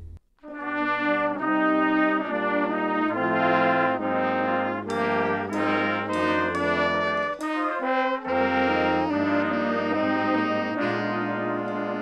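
Brass instruments, trumpets and trombones, playing a melody in sustained notes; the music starts about half a second in.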